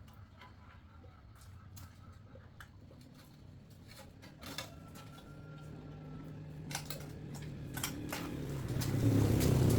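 Scattered light metallic clicks and clinks of hand-tool work on a machine, over a low hum that grows louder over the last two seconds.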